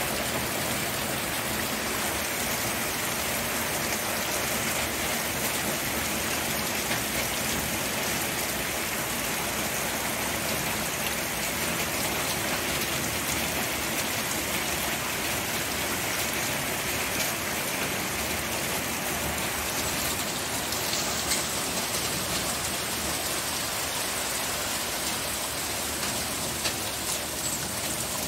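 Steady rain falling and pattering on surfaces, an even hiss of many drops with a few sharper drip ticks.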